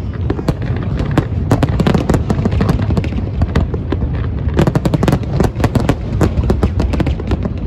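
Aerial fireworks going off in a dense barrage: many quick cracks and pops over a continuous deep rumble of bursting shells.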